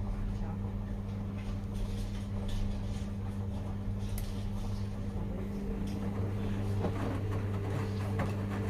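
Washing machines running mid-cycle: a steady low hum with faint scattered clicks and knocks.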